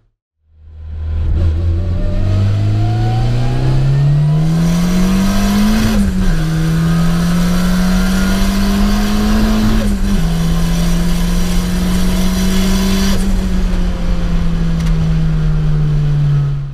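Turbocharged 1.9 VW AP four-cylinder engine heard from inside the cabin, accelerating hard: the revs climb, drop at upshifts about six and ten seconds in, and climb again. A high hiss rides over the engine note while it pulls and stops about thirteen seconds in, after which the revs slowly sink.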